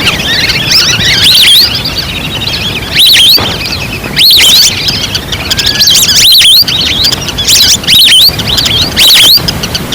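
Recorded calls of a flock of wild ducks played as a hunting lure call: many high, curving whistled notes overlapping, with louder clusters of calls about every second or two.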